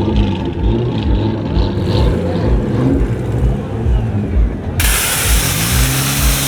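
A car engine running and revving over a steady thumping bass beat, about three beats a second. Near five seconds a loud hiss of air starts suddenly and runs for about three seconds.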